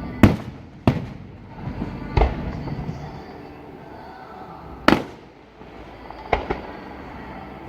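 Fireworks going off: about six sharp bangs at uneven intervals. The loudest come near the start and about five seconds in, and two follow close together near the end.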